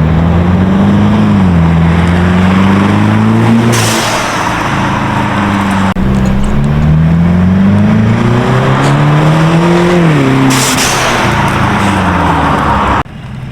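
Mercedes E300's turbocharged 2.0-litre four-cylinder engine accelerating hard with its QTP exhaust cutout valves open: the exhaust note climbs in pitch and drops at each upshift, twice, then cuts off abruptly near the end.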